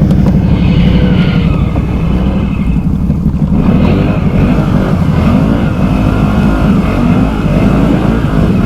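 Can-Am Outlander 650 XMR ATV's V-twin engine running hard under throttle as the quad powers through deep water and lifts its front end in a water wheelie.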